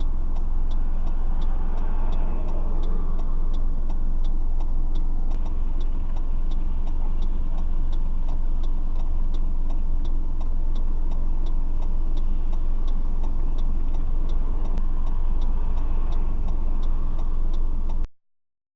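Steady car engine and road rumble heard inside the cabin, with a light, even ticking about two to three times a second. The sound cuts off suddenly near the end.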